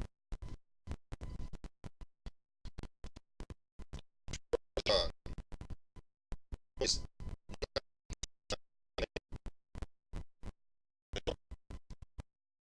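Garbled, stuttering audio from a faulty recording, cutting in and out many times a second, with louder fragments about 5 and 7 seconds in.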